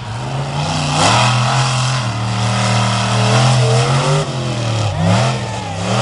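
Monster truck engine running hard and revving. Its pitch steps up about a second in, holds, then drops and climbs again near the end, as the throttle is worked during a run.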